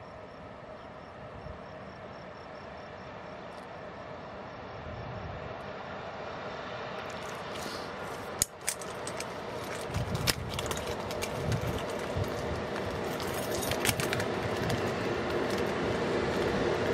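Two RENFE class 269 electric locomotives in multiple hauling a train of tank wagons, approaching with their running noise growing steadily louder. A few sharp clicks come through from about halfway.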